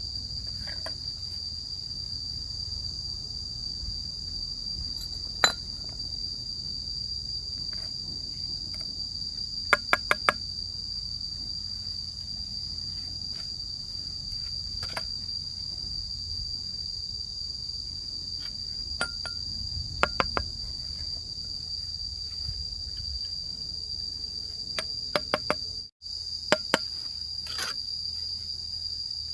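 Steady, high-pitched insect chorus, with scattered sharp knocks coming singly or in quick runs of three or four, like light hammer taps. The sound briefly cuts out about 26 seconds in.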